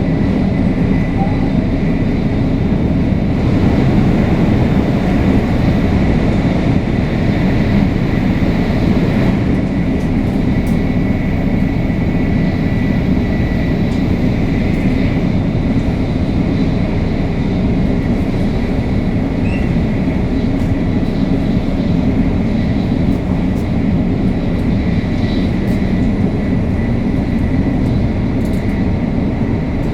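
Running sound heard inside a car of a 500 series Shinkansen (Toshiba GTO-VVVF traction) between stations: a steady, loud rumble of wheels and motion with faint steady high tones above it.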